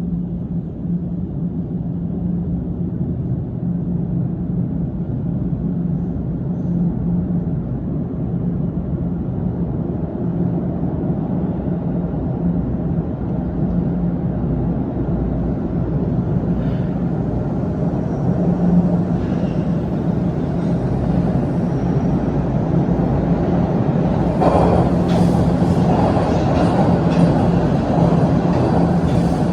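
TTC Line 1 subway train rumbling through the station, with a steady low hum that grows slowly louder. Harsher wheel-on-rail noise joins from near the end.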